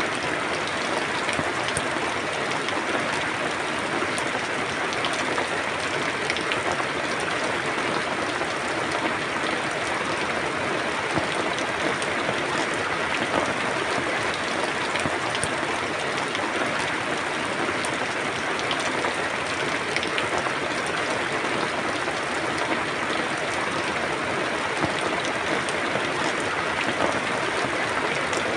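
Steady rain: an even hiss of falling rain with many small drops ticking on a surface, unchanging throughout.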